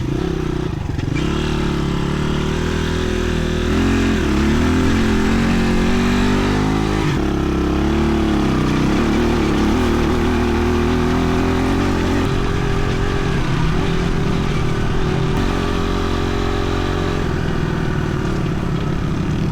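Dirt bike engine running, its revs rising and falling several times.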